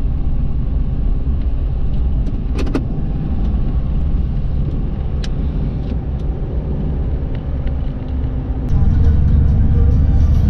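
Steady low road rumble inside a moving car, with a couple of brief clicks; it steps up louder about three quarters of the way through.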